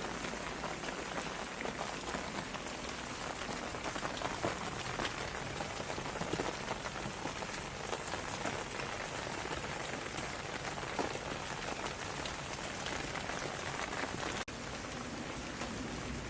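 Steady rain falling on a surface, many individual drops heard within an even hiss. The sound briefly cuts out for an instant near the end, then carries on.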